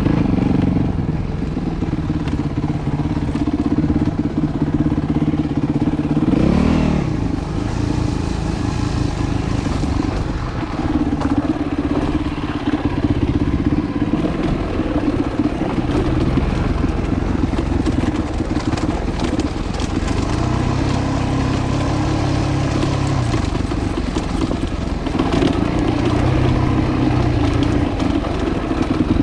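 Yamaha WR250F's single-cylinder four-stroke dirt bike engine running under riding load, its pitch rising and falling with the throttle, with a quick rev rising and dropping about six seconds in.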